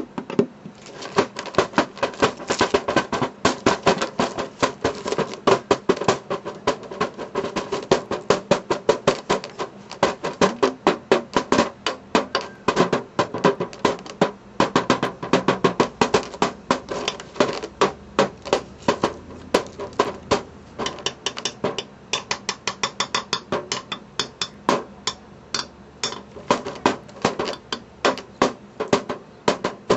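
A wrapped springform pan being tapped as a drum: a fast, uneven run of sharp metallic-sounding strikes, several a second.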